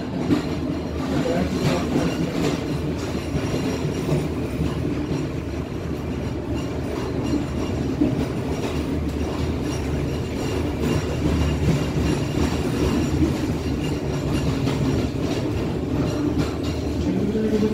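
Passenger train rolling slowly out of a station and gathering speed, heard from the rear of the last coach: a steady wheel-on-rail rumble with occasional clacks as the wheels cross rail joints and points.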